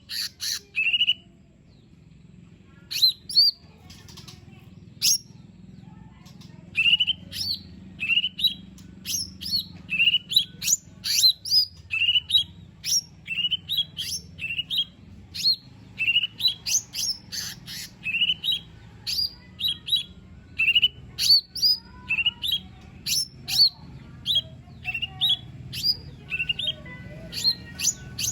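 Cucak ijo mini (a small leafbird) singing: a fast run of short, sharp chirping notes, about two a second, with a brief pause near the start.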